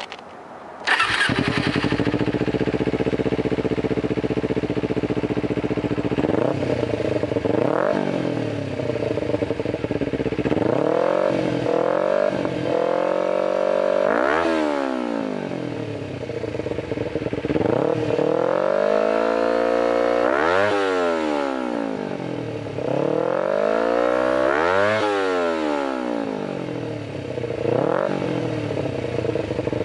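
Kawasaki Ninja 250R's 249 cc parallel-twin engine breathing through an Area P full aftermarket exhaust and a Uni air filter. It starts suddenly about a second in and idles steadily, then gets a series of throttle revs, each rising and falling in pitch: short blips first, then several longer, higher revs.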